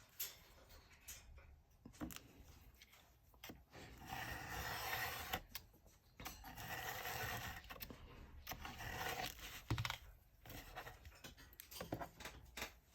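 Faint scraping of paper being cut and handled, in two longer stretches with a few small clicks and knocks between them.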